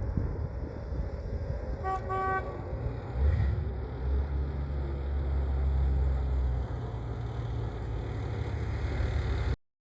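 1978 Ford F-150 pickup's engine running, with one short horn honk about two seconds in. The engine note rises a little after three seconds, holds for a few seconds, then drops back before the sound cuts off suddenly near the end.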